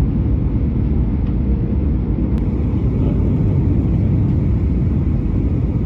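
Steady low rumble of a Boeing 737-700 jet airliner, with a faint steady hum above it and a single sharp click about two and a half seconds in.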